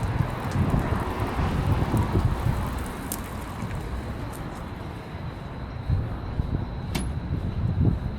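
City street traffic: a steady low rumble of passing cars, with a sharp click about seven seconds in.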